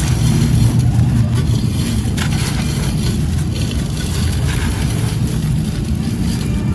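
Light grey gritty concrete being crumbled: a continuous low, grainy crunch with sharper gritty crackles about once a second.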